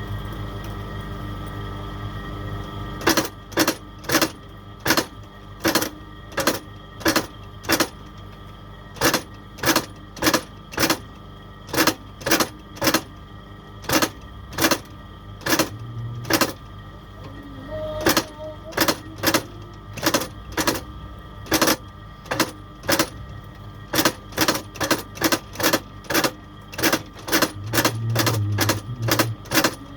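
A steady machine hum that stops about three seconds in, followed by a long irregular run of sharp taps, one to two a second and sometimes in quick bunches, as of hand tools striking.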